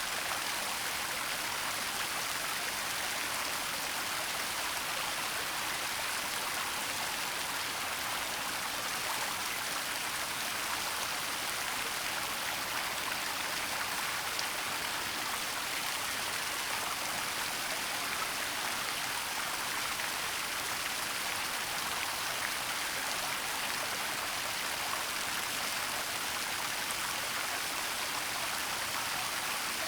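Waterfall in a forest: a steady, even rush of falling water, mostly hiss, with no change in level.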